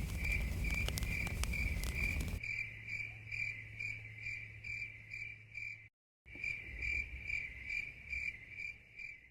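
Cricket chirping steadily, a high-pitched pulse about three times a second. A low rumble with faint clicks lies under it for the first two seconds or so, then drops away.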